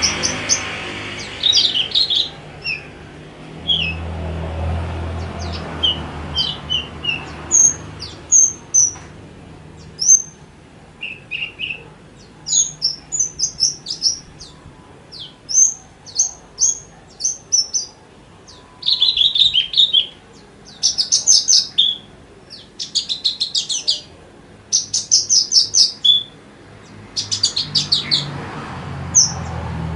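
Javan bush lark (branjangan) singing: a varied song of short chirps and whistled notes in phrases separated by short gaps, with fast trilled runs in the second half.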